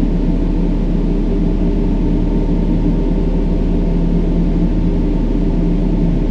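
Steady brown noise: an even, deep rushing hiss with most of its weight in the low end, and a few steady low tones held beneath it.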